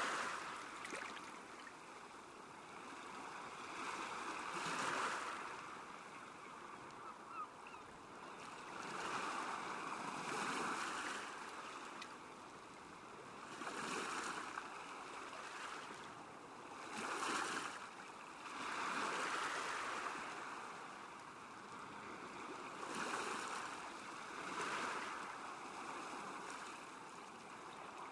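Small waves lapping on a lake shore, the wash swelling and falling every three to five seconds.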